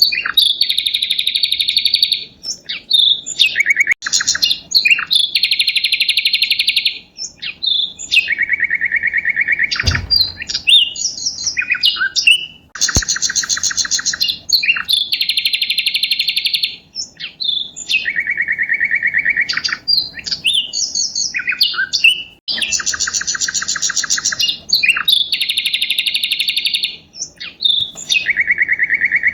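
Birdsong: fast, buzzy trills held for a second or two each, alternating between a higher and a lower pitch, with short chirps between them. The same sequence of phrases repeats about every ten seconds.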